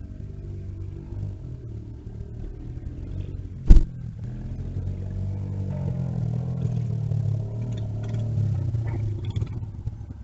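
An engine running, building in pitch and loudness from about five seconds in and easing off near the end, with one sharp knock a little under four seconds in.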